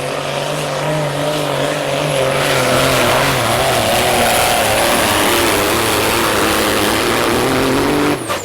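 Diesel semi truck engine running hard under full load while pulling the sled, with a steady high whistle above the engine note. The sound breaks off suddenly near the end.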